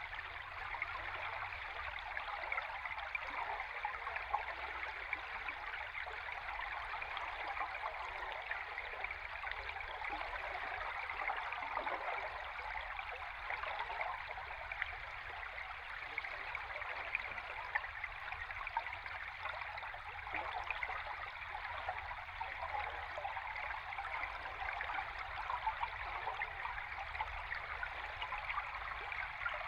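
A river stream heard underwater: a steady rush of bubbling with dense fine crackling, over a deep low undertone.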